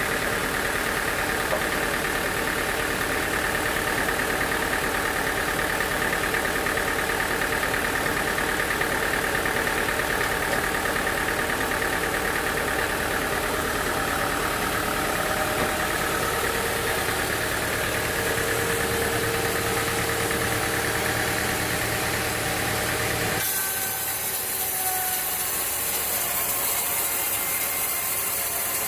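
Sawmill engine running steadily with a mechanical hum. About 23 seconds in the sound changes abruptly: the low rumble drops away and a high hiss remains.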